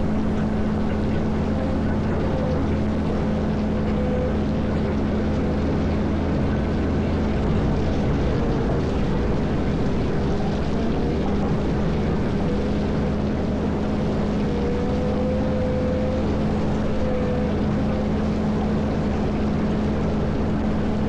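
Caterpillar 140M motor grader's diesel engine running at a steady speed: an even, deep drone with a thinner whine above it that wavers and fades in and out.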